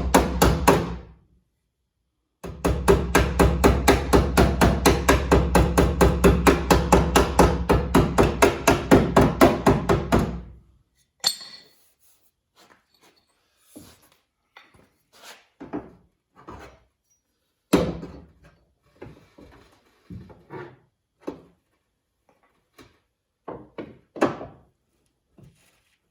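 Sheet-metal bodywork hammering: a fast, even run of hammer blows, about five a second, that stops about ten seconds in. After that come scattered, lighter single taps and knocks.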